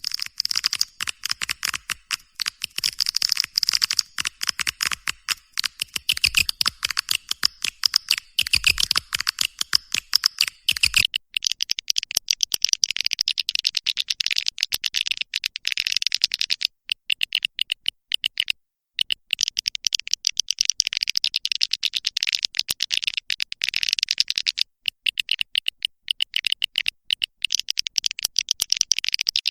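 Swiftlet call-sound recording used to lure swiftlets into a nest house: a dense, rapid, high-pitched chirping twitter of many swiftlets, with a few brief breaks.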